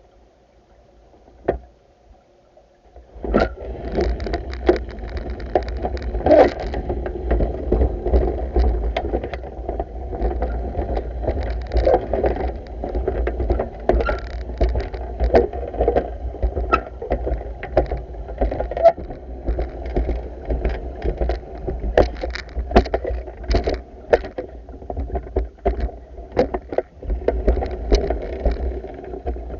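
Pool being vacuumed by hand: water sloshing and rough knocking from the vacuum pole and head moving through the water, over a steady low rumble. It starts about three seconds in.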